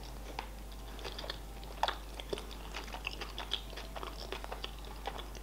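Close-miked chewing of a mouthful of sushi roll, with scattered small, irregular wet mouth clicks.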